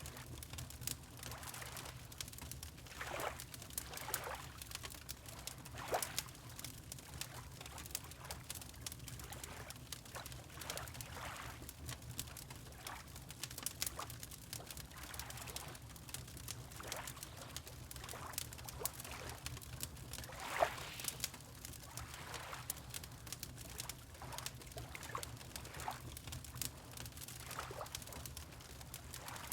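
Fireplace crackling with frequent small pops over a low steady rumble, while water laps gently in soft swells every second or two.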